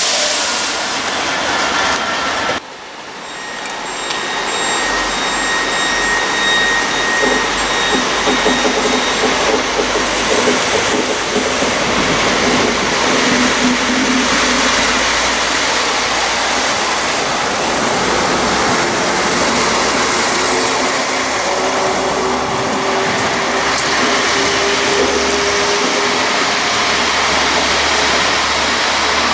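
A train running past close by: a steady rushing noise with a low rumble and faint whining tones. The sound breaks off abruptly about two and a half seconds in and then builds again.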